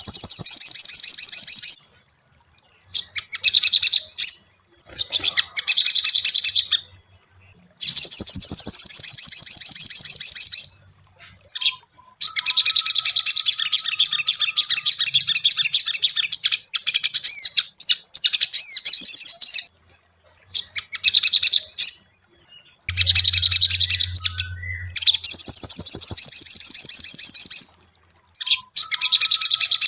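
Little spiderhunter (sogon) calling in long runs of rapid, high-pitched chips. Each run lasts a few seconds, with short pauses between runs. A brief low hum sounds about two-thirds of the way through.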